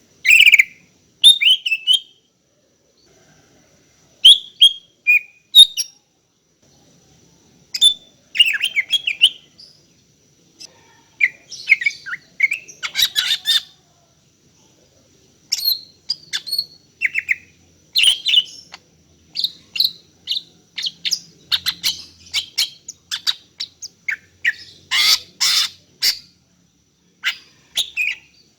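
Female greater green leafbird (cucak ijo) calling to a male. She gives short phrases of quick, downward-sweeping whistled notes and chips with pauses between them, and the phrases come faster in the second half. Harsher chattering bursts come about halfway through and again near the end.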